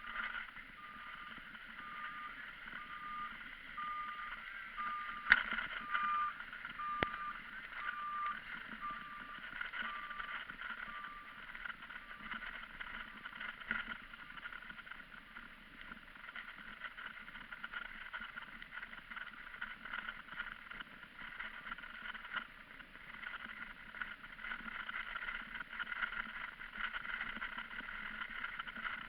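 Steady rushing wind and road noise from riding a bicycle. Faint beeps about once a second run through the first ten seconds or so, and a sharp click comes about five seconds in, with a second one two seconds later.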